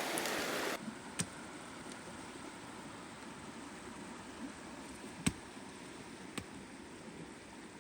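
Steady rushing of a stream with a campfire popping three times. The rushing drops to a quieter level under a second in.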